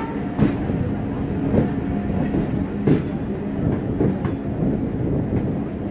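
Passenger train pulling out of a station, heard from aboard the moving coach: a steady wheel-and-rail rumble with a clack over a rail joint about every second and a quarter.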